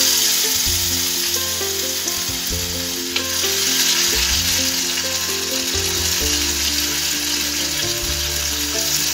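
Ginger and green chilli paste frying in hot oil in a small pan, a loud, steady sizzle as it is stirred with a spatula; one light knock about three seconds in.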